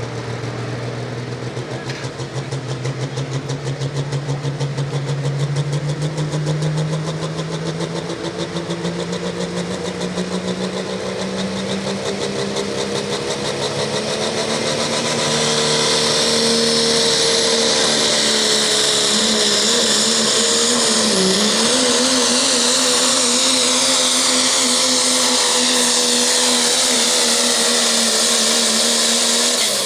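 Diesel pickup truck engine running under full load as it pulls a sled down the track. Its pitch climbs steadily for about the first fifteen seconds, then holds high and loud with a brief dip about two-thirds of the way through.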